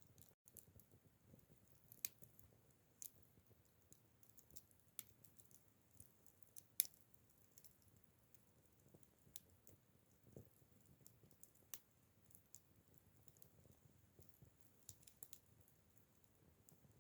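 Acacia firewood crackling in a campfire: scattered sharp pops and snaps at irregular intervals, the loudest about seven seconds in.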